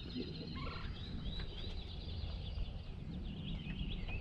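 Birds chirping in a quick run of short calls over a steady low background rumble.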